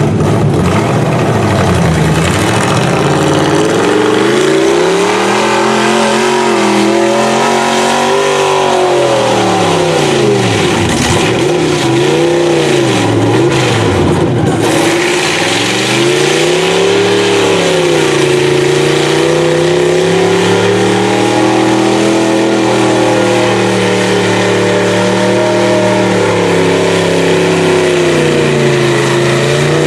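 Mud truck engine revving hard, its pitch rising and falling again and again, with deeper swings in the first half and gentler ones later, over a constant loud hiss.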